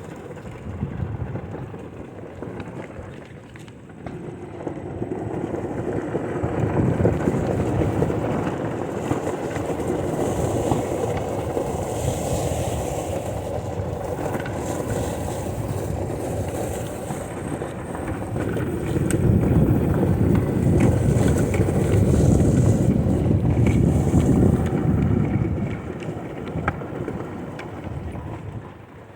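Wind buffeting the microphone: a rumbling rush that swells and eases, loudest about a quarter of the way in and again past the middle.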